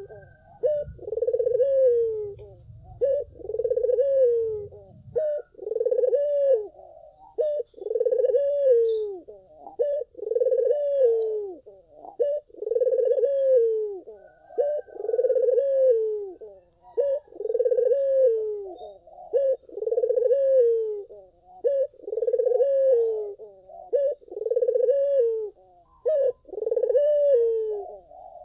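A puter (domestic ringneck dove) cooing over and over in a steady rhythm, about one coo every second and a half, each coo bending down in pitch at the end.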